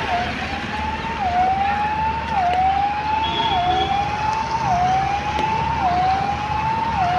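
Siren wailing in a repeating pattern: a single tone climbs slowly for about a second, then drops back and climbs again, over and over, with a steady hiss underneath.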